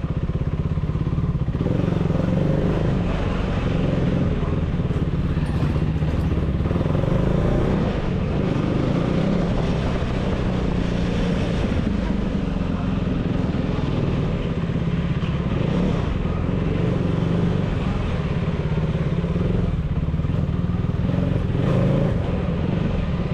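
KTM Duke 390's single-cylinder engine, breathing through an aftermarket dual exhaust, running steadily under way with mild swells in throttle.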